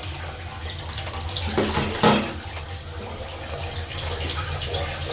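Water running steadily as the toilet tank refills through its fill valve, with a knock about two seconds in.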